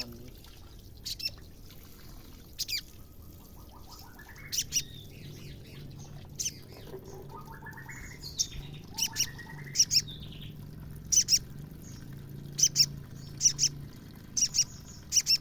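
Female little spiderhunter (sogon) calling: short, sharp, high call notes, often in quick pairs, repeated every second or so, with a few lower rising trills between them.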